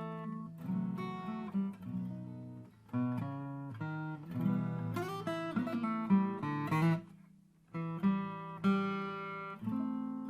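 Acoustic guitar music, plucked and strummed chords, with a short pause about three quarters of the way through.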